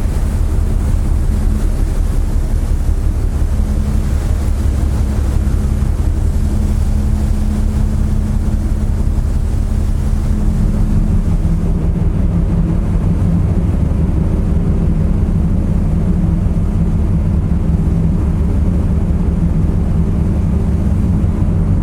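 Car ferry's engines running steadily: a loud, deep hum with steady low engine tones and a hiss over it. About halfway through the engine tones shift and the hiss fades.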